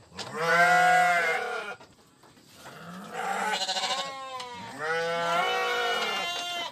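An animal giving three long bleating calls, each arching in pitch, the middle one with a fast flutter.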